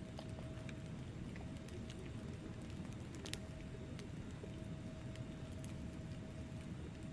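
Wood fire burning in a fireplace: a low steady rumble of flames with scattered crackles and pops from the logs, the sharpest pop a little past three seconds in.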